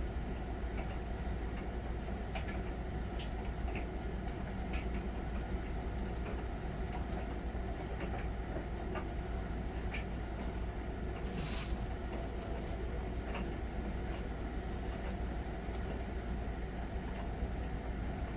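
Miele Novotronic W921 washing machine running with its drum turning: a steady low rumble and hum with scattered light clicks, and a brief hiss about eleven seconds in.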